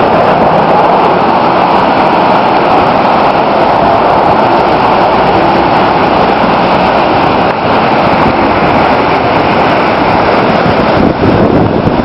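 Loud, steady rush of floodwater churning down the Moira River.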